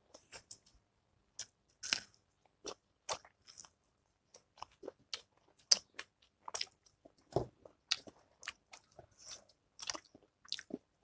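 Close-miked mukbang chewing and biting: irregular crisp crunches and wet clicks of a mouthful of food, a few every second.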